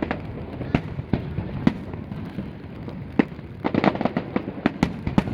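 Aerial fireworks bursting: a run of sharp bangs, a few scattered at first, then a rapid crackling cluster of reports from about three and a half seconds in.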